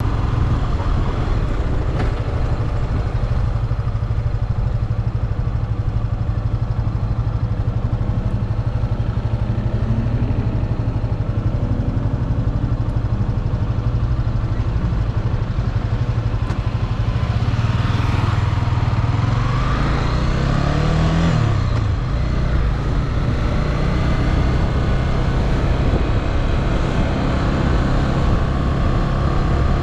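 Motorcycle engine running while riding, steady at first, with the engine pitch climbing as it accelerates, most clearly around twenty seconds in.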